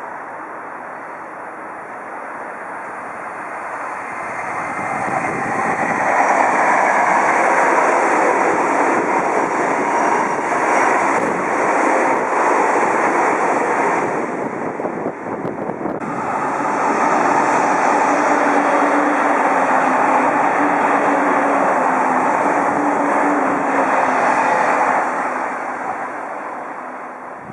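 Odakyu Line electric trains passing at speed: a rising rush of wheels and motor noise that turns loud about six seconds in, dips briefly near the middle, swells again, then fades near the end.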